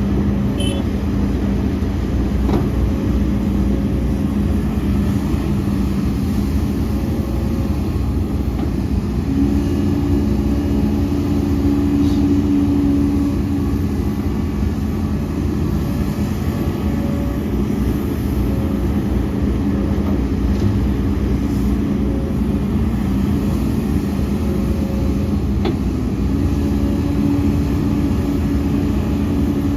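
Heavy diesel earthmoving machinery, an excavator and dump trucks, running steadily under load. A second, higher engine tone joins in twice, for a few seconds each time.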